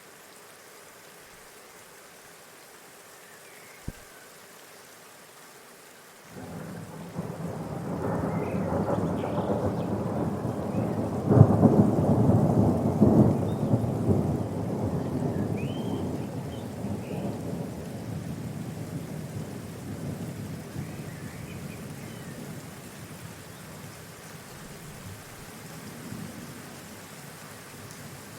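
Rolling thunder: a rumble that starts suddenly about six seconds in, is loudest a few seconds later and fades slowly over about fifteen seconds, over a steady hiss. A few faint high chirps come through the rumble.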